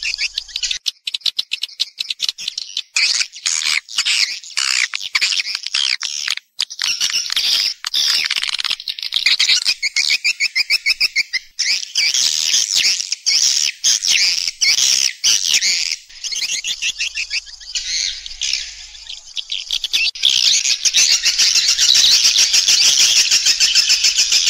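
Edible-nest swiftlets twittering: a dense, unbroken chatter of rapid high chirps, a swiftlet call recording used to lure the birds into a nesting house.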